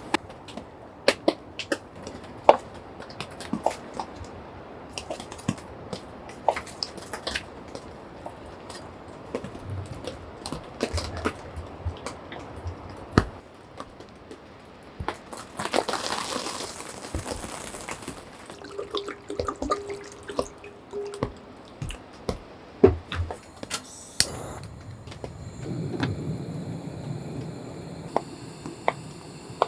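Irregular water drips and small taps, with a couple of seconds of running or pouring water about halfway through.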